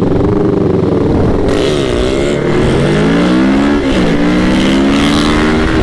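Sport motorcycle engine accelerating hard through the gears: its pitch climbs and drops back at two upshifts, about two and a half and four seconds in, with wind rushing past.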